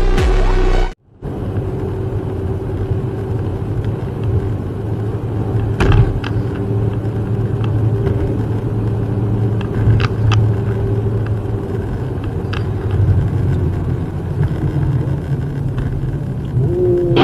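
Electronic music cuts off about a second in. It is followed by a truck's engine and road noise heard from inside the moving cab, running steadily with a few short knocks.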